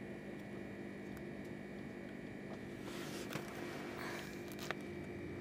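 Steady hum inside a moving passenger train carriage, with a few faint rustles and a small click near the end.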